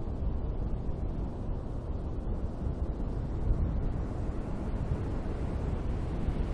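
Beach waves: surf breaking in a steady, low rumble.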